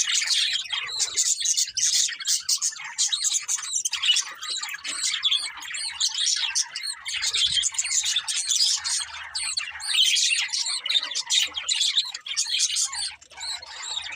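Pet budgerigars chirping and warbling without a break, many short chirps and squawks overlapping.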